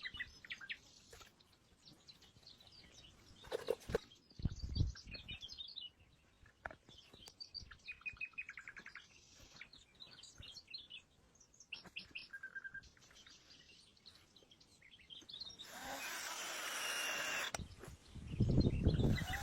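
Small birds chirping and singing in woodland, with a few knocks about four seconds in. A burst of hiss comes about sixteen seconds in, and heavy low thuds come near the end.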